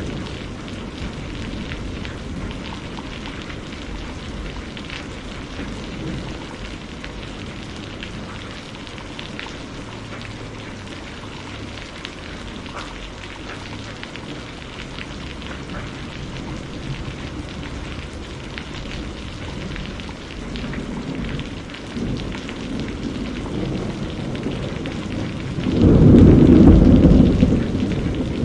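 Steady rainfall with scattered drop ticks. Low thunder rumbles in the background in the second half, then a loud low clap of thunder about 26 seconds in.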